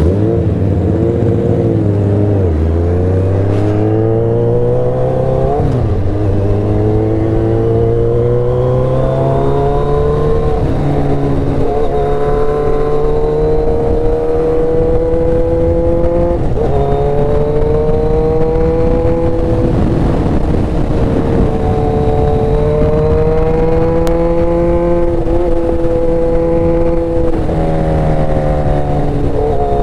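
Motorcycle engine under way, its note climbing steadily and dropping back several times as the rider works through the gears and throttle, over a steady rush of wind and road noise.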